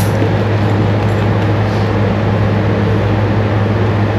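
Steady mechanical drone with a strong constant low hum under an even rushing noise, unchanging throughout.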